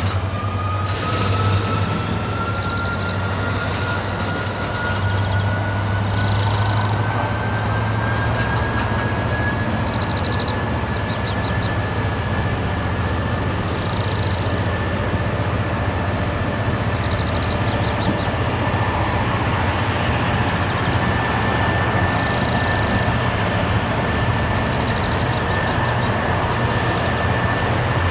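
Train running past at the lineside, with a steady low hum and a thin whine that rises slowly in pitch over the first half and then holds steady.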